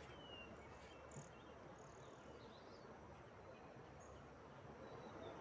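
Near silence: faint outdoor ambience, a soft steady hiss with a few short bird chirps.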